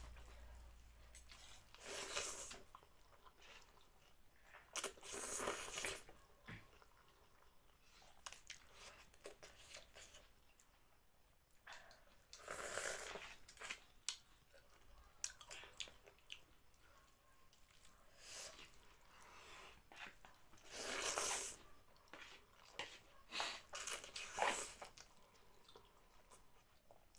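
Close-miked eating of thukpa noodle soup and potato chop: chewing and crunching, with louder noisy bites every few seconds.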